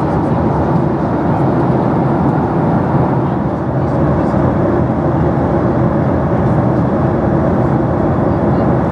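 Cabin noise of a Boeing 737-800: a steady, even noise of its engines and the air rushing past, heard from inside the cabin.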